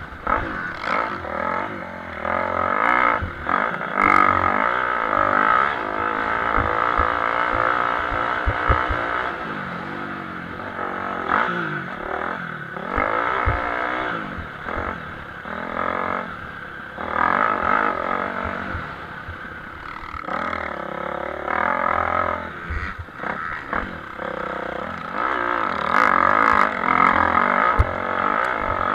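Motocross motorcycles racing, their engines revving up and dropping off again and again as they accelerate and shift, loudness rising and falling as the bikes pass.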